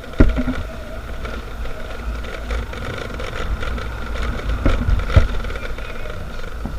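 Motorcycle running on the move, its engine tone steady under a heavy low wind rumble on the microphone, with a few sharp knocks, one just after the start and two about five seconds in.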